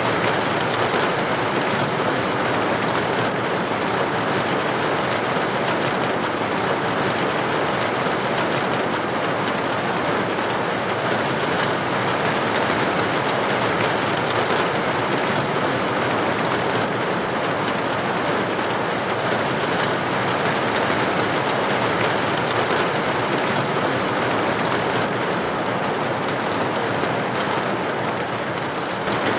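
Steady rain falling on a window: an even, dense hiss with no single drops or other events standing out.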